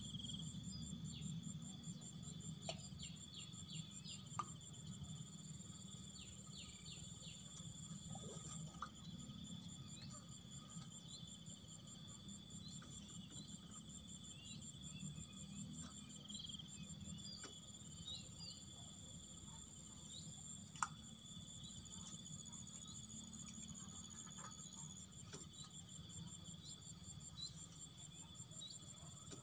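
Insects trilling steadily and high-pitched, the trill shifting slightly in pitch a few times, over a low steady noise, with a couple of short clicks.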